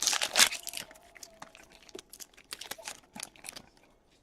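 Crinkling and tearing of a trading-card pack wrapper, loudest in a dense burst in the first half second, followed by scattered rustles and light clicks of cards being handled.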